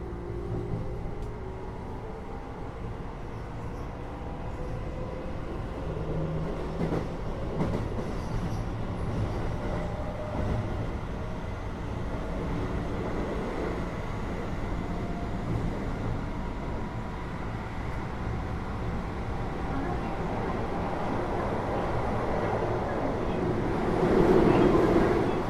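Keio 8000 series electric train running, heard inside the car above its Hitachi GTO-VVVF main controller. The inverter and traction motors hum, with faint tones that climb slowly, over wheel and rail noise. A louder rush swells briefly near the end.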